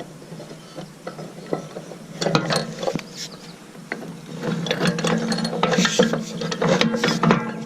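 Ratchet wrench clicking as it is worked back and forth on a bolt of the roller's bearing housing. Scattered clicks at first, then rapid, near-continuous ratcheting from about two seconds in.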